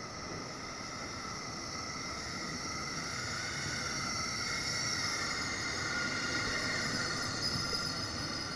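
Electric train running, a steady rail rumble with several high whining tones over it, growing gradually louder.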